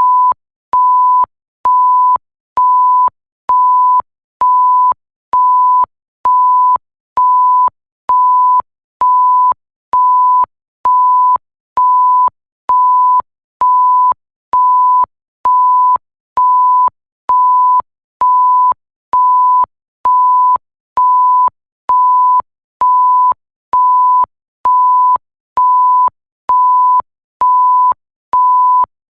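Electronic bleep sound effect: a single steady high tone beeping on and off about once a second, each beep about half a second long, with a faint click at the start and end of every beep.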